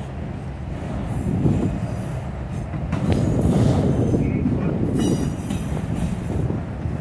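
Freight train of autorack cars rolling past, a continuous rumble of steel wheels on the rails that swells and eases as the cars go by.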